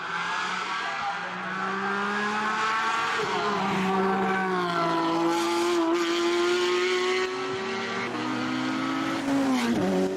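Race car engine running hard at high revs. Its pitch climbs steadily and drops at gear changes about three and eight seconds in, then falls sharply near the end as the revs come off.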